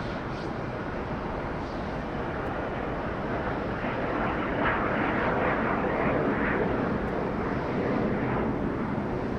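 Jet noise from an Airbus A321 airliner's twin jet engines as it moves on the runway, swelling about four seconds in and easing slightly near the end.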